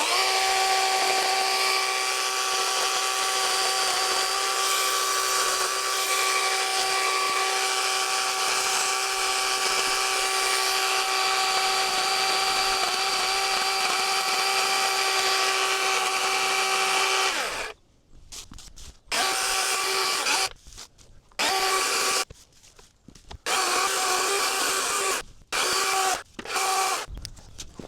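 Dewalt battery-powered chainsaw with its electric motor whining steadily as it cuts through hardwood eucalyptus logs. The whine holds for about seventeen seconds, then stops, and the saw is run again in several short bursts of a second or two each.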